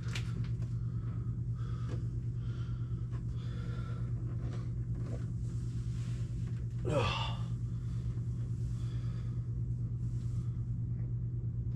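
A man breathing hard with light knocks and handling as he lifts the top cowling off a Yamaha VMAX outboard, over a steady low hum. One short, louder sound that falls in pitch comes about seven seconds in.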